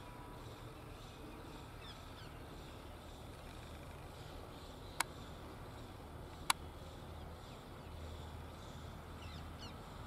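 Quiet open-air background with a low steady rumble and a few faint, high bird chirps about two seconds in and again near the end. Two sharp clicks, about a second and a half apart, stand out in the middle.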